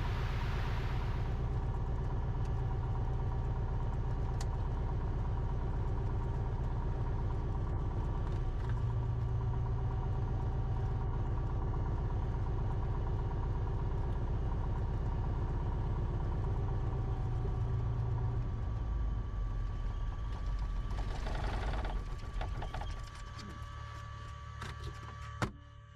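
Cessna 172RG's four-cylinder Lycoming O-360 engine idling steadily at about 1000 rpm during shutdown, then running down and stopping about three-quarters of the way through. A single sharp click follows near the end.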